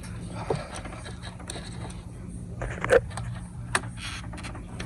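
Hand work on parts in an engine bay: scattered clicks and metal knocks from tools and parts being handled, the loudest knock about three seconds in, over a steady low hum.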